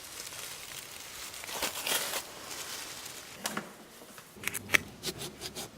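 Rustling and crackling of dry grass and plant matter being handled, with a few sharp clicks in the last second and a half.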